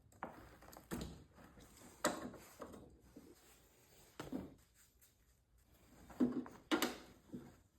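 Irregular clicks, knocks and light rattles of hands unclipping the fuel pump's two fuel lines and its wiring connector, the loudest clicks near the end.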